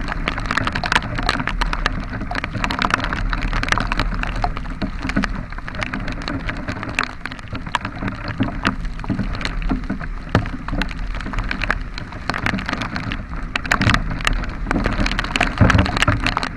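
Heavy rain with drops ticking irregularly close to the microphone, over the steady low drone of a vehicle on the move.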